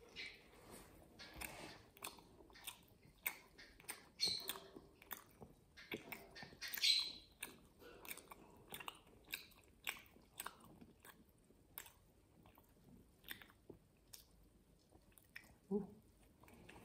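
Close-miked chewing of a pork and pancetta sausage roll in pastry: a run of small wet mouth clicks and smacks, with two louder bites about four and seven seconds in.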